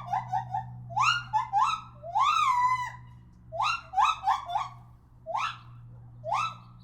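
An animal's high, repeated short calls, each rising in pitch, coming in quick clusters of several a second over a steady low hum.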